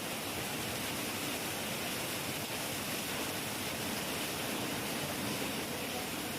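Heavy rain falling steadily, an even rushing hiss with no thunder.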